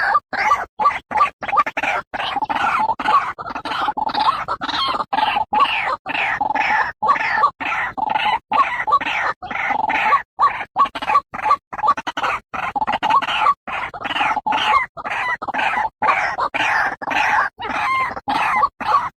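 White-breasted waterhen calling: a dense, unbroken run of harsh croaking notes, chopped by many short, abrupt gaps.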